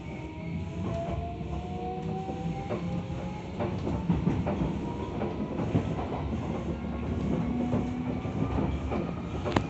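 Tokyo Metro 17000 series electric train running, its inverter and traction motors giving a rising whine in the first few seconds as it picks up speed. Over a steady low rumble, the wheels give scattered clicks over the rail joints.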